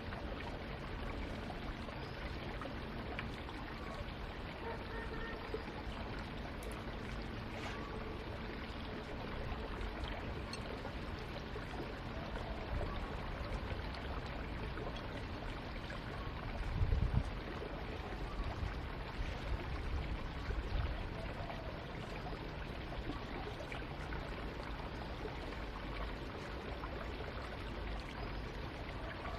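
Steady running water, with a few dull low knocks about halfway through.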